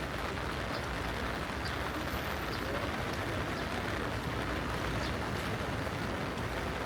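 Steady street ambience in the rain: an even wash of rain and traffic noise, with faint voices of passers-by and a few light ticks.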